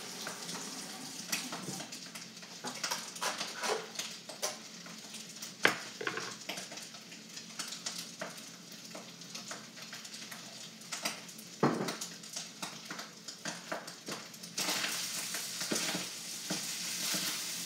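Fried rice sizzling in a hot wok, with frequent sharp scrapes and clicks of a utensil stirring it against the pan; the sizzle grows louder near the end. The rice is being fried dry to crisp it.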